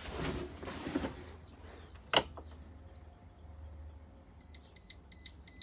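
A single sharp click, then, near the end, the dashboard chime of a 2023 Blue Bird Vision bus begins beeping rapidly, short high beeps about three a second.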